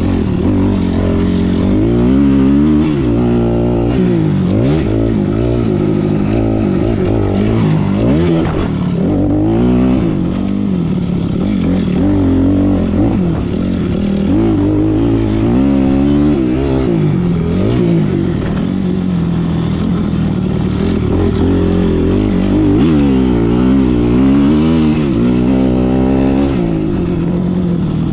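Motocross dirt bike engines revving up and falling back again and again through gear changes and corners, with several bikes sometimes heard at once.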